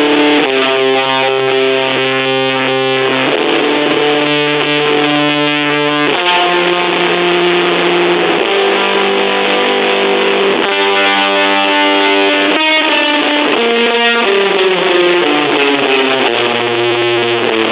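Electric guitar played through a Junkbox 'Death Metal Drone' battery-powered amp with heavy fuzz distortion and delay. Slow, held chords change every few seconds.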